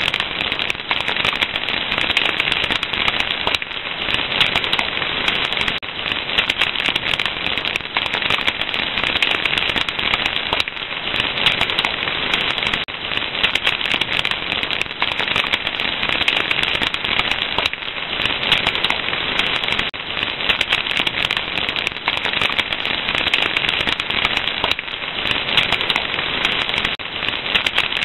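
Fire crackling, with dense, constant pops and snaps at an even loudness throughout.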